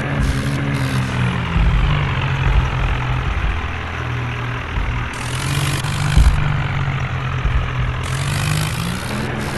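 John Deere tractor's diesel engine running steadily, its pitch shifting briefly just after the start and again near the end, with stretches of hiss over it.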